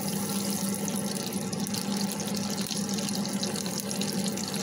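Chicken cutlets sizzling and crackling steadily in hot oil in a nonstick frying pan as they are turned over, with a steady low hum underneath.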